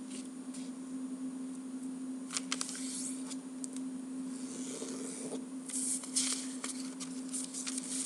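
Square sheet of origami paper rustling and crinkling in the hands, with scattered crisp clicks as it is folded diagonally and the crease is pressed down. A steady low hum runs underneath.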